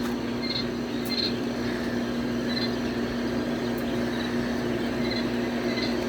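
A steady machine hum with faint, high, short peeps repeating about every half second to second, likely young poultry chicks peeping.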